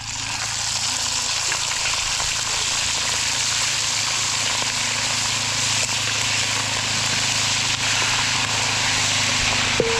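Chicken deep-frying in hot oil: a loud, steady sizzle that sets in abruptly.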